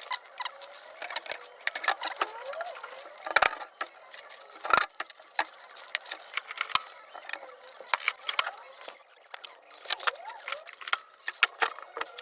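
Irregular metallic clinks, taps and knocks of small metal engine parts and hand tools being handled during a two-stroke dirt bike's bottom-end strip-down.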